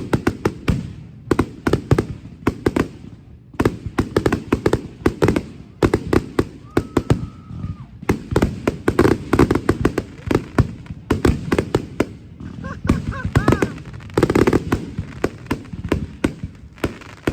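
Public fireworks display going off in rapid succession: a dense, continuous barrage of bangs and crackling reports.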